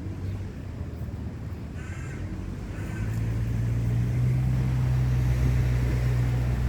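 A low engine hum that grows louder about three seconds in, with two short harsh calls before the swell, about a second apart.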